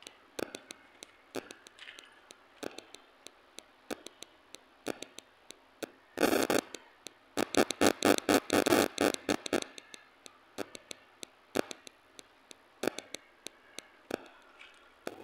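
Close-miked eating sounds: a steady run of wet mouth clicks and smacks from chewing roti and sabzi, with a dense, louder stretch of chewing clicks in the middle after a bite is taken. Flatbread is torn by hand near the start and the end.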